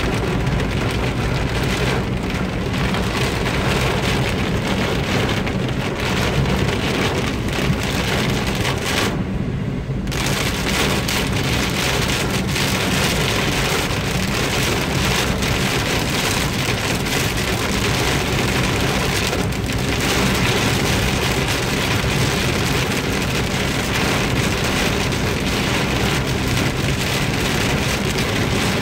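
Heavy rain hitting the roof and windshield of a moving car, heard from inside the cabin: a dense, steady patter over a low rumble of engine and tyres on the wet road.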